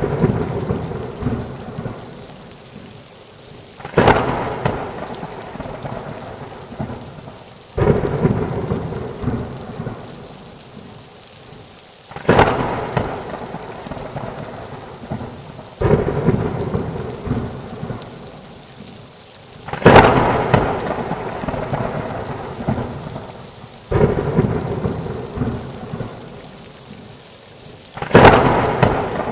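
Heavy rain falling steadily, with thunder cracking and rumbling about every four seconds. Each clap starts suddenly and dies away over a few seconds.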